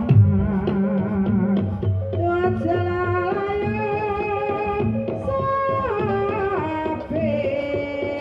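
Javanese gamelan music for a kuda kepang dance. Drum strokes are followed by a long, high held melody that steps down in pitch near the middle, over a steady rhythmic accompaniment.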